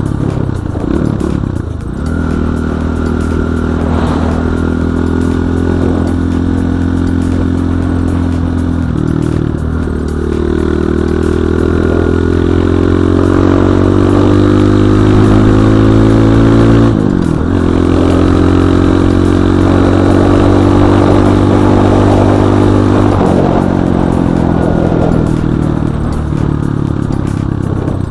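BSE J1 enduro motorcycle engine running under way. It holds a steady pitch that rises slowly at times, with short dips and changes in pitch about four times as it shifts or comes off the throttle.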